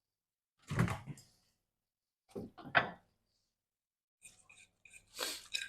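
Microwave door being opened and closed: short clunks and knocks in three brief clusters, the middle one a quick run of several strikes.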